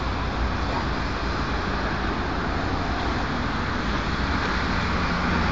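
Steady traffic noise, a continuous rumble and hiss with no distinct events.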